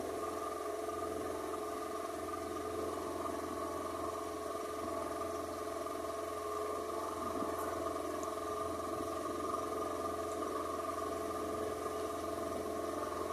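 A motorboat's engine running steadily, a constant droning hum that holds one pitch with no revving.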